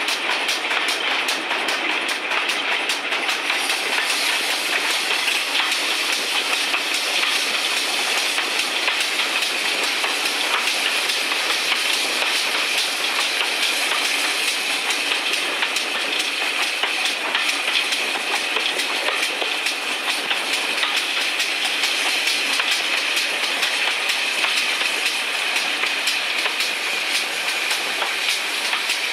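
Steady running noise of a steam-hauled heritage train under way behind locomotive 1369, heard close to the engine: wheels rolling on the rails, with clicks as they pass over rail joints.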